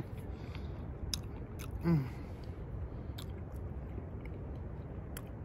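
A person chewing a bite of a river-dipped Crumbl Oreo cookie, with several small sharp mouth clicks, over a steady rush of background noise. One short vocal sound about two seconds in.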